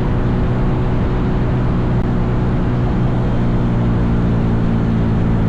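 Mini bike's small engine running at a steady speed while riding, its note holding even.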